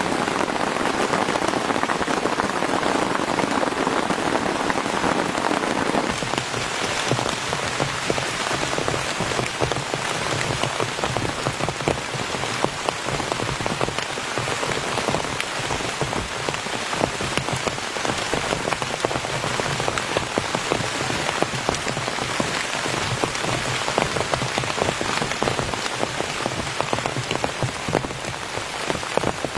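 Heavy rain falling: a dense, steady hiss made of countless individual drop hits. About six seconds in, the sound of the rain changes.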